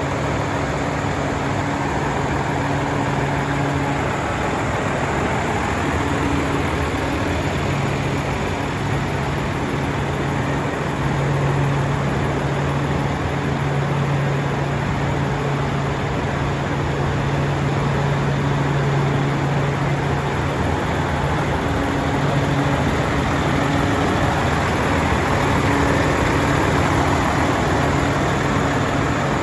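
Volvo FH 500 truck's 13-litre six-cylinder diesel engine idling steadily, a continuous low hum.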